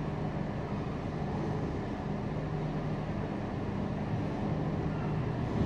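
Southern passenger train approaching along the track toward the platform, a steady low hum over a rumble.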